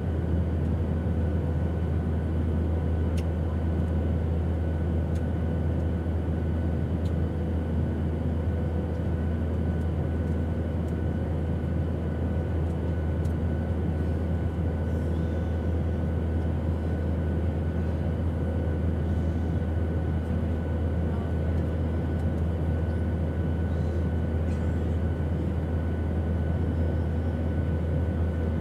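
Airplane engine noise: a steady, unchanging drone, deepest and loudest in the low end, with a few faint steady tones above it.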